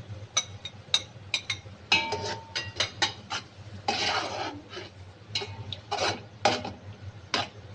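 Cooking utensil knocking and scraping against a frying pan as chicken and capsicum are stirred, with repeated sharp clinks and a longer scrape about four seconds in.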